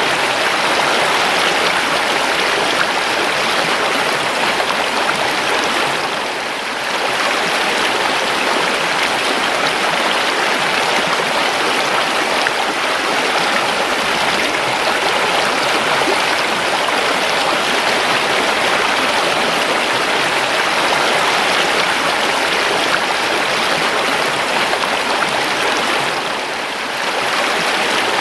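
River water flowing and babbling in a steady rush, dipping slightly in level twice.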